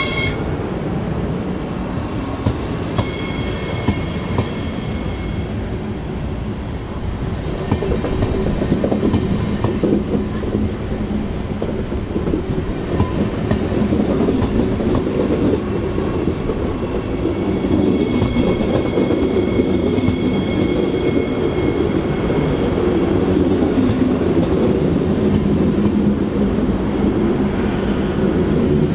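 A train moving through the station: a steady rolling rumble with wheels clicking over rail joints. A thin high whine comes in briefly twice.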